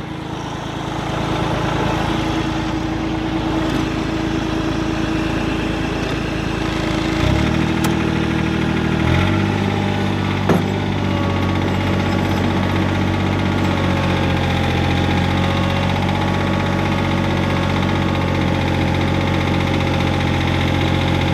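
John Deere 855 compact tractor's three-cylinder diesel engine running steadily while pushing snow with the front blade. Its engine note shifts about seven seconds in and again about nine seconds in, with a single short knock a little after ten seconds.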